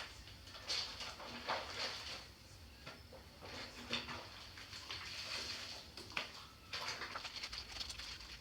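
Clothes being scrubbed and rubbed by hand in a basin of soapy water: irregular wet swishing strokes, one every half second or so.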